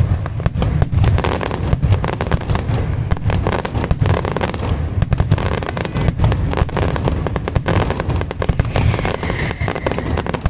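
Aerial fireworks display: a dense, fast barrage of bangs and crackles over a continuous deep rumble, starting abruptly.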